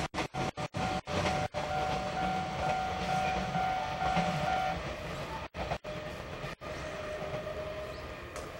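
The last container wagons of a freight train rumbling past on jointed track, the sound fading steadily as the train recedes, with a thin steady ringing tone over it. The sound cuts out briefly several times in the first second and a half and twice more a little past the middle.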